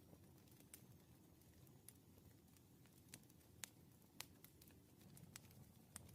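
Faint wood fire crackling: irregular sharp pops and snaps over a low, steady rumble.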